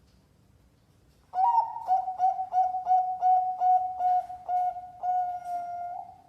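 Zebra dove (perkutut) singing: about a dozen short coos in quick succession, roughly three or four a second, then one longer held coo.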